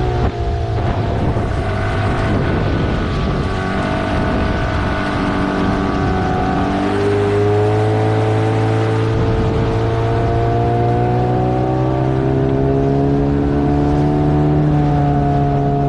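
15 hp outboard motor pushing a small inflatable boat at speed, with a rush of water and air over it. The engine note wavers for the first several seconds, then climbs slowly and steadily as the boat speeds up.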